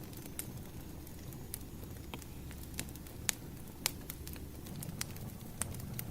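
Wood fire crackling: irregular sharp pops and snaps over a low, steady rumble, the loudest pops a little past the middle.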